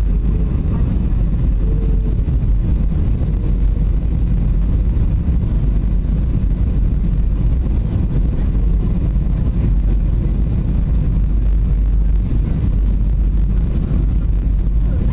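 Steady low drone inside a Boeing 737's cabin: engine and airflow noise.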